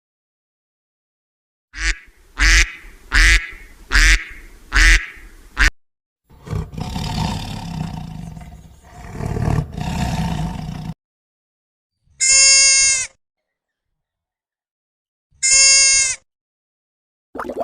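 A string of different animal calls: five short calls in quick succession, then a longer low rough call, then two clear high-pitched calls a few seconds apart.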